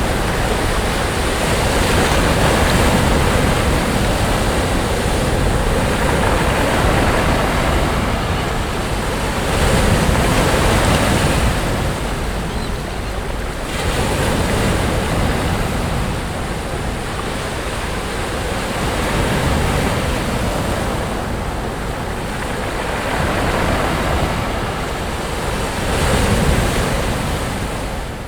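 Sea waves washing onto a sandy beach: a continuous rush of surf that swells and eases every few seconds as each wave breaks.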